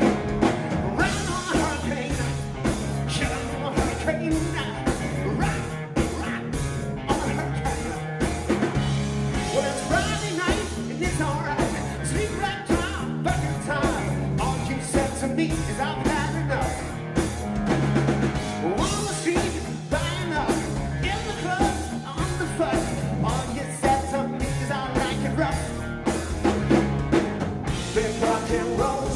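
A rock band playing live, with a vocalist singing over electric guitar, bass and a drum kit keeping a steady beat.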